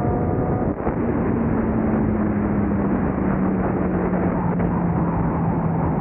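A race car's engine at high speed under heavy wind and road noise: its pitch climbs, breaks off with a brief dip a little under a second in, then a single tone sinks slowly in pitch as the car comes off the throttle.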